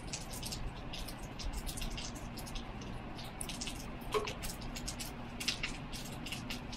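Water dripping irregularly, several drops a second, over a low steady rumble, with one brief higher tone about four seconds in.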